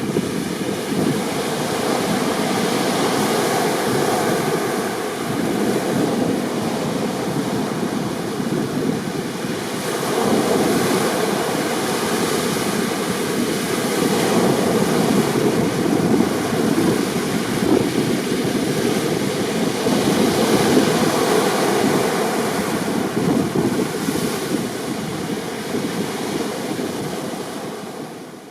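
Rough sea waves breaking and surging in a continuous rush of water, with wind buffeting the microphone. The surge swells louder about ten seconds in, and the sound fades out at the very end.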